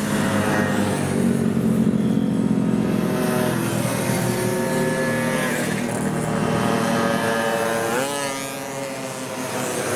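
Several 50cc moped engines running hard past the track edge, their pitch rising and falling as they pass; one revs up sharply about eight seconds in.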